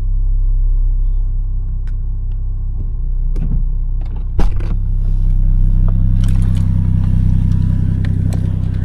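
Toyota 1JZ-GTE turbocharged straight-six engine and exhaust running with a steady deep drone. A sharp click comes about four and a half seconds in, and more noise builds up over the second half.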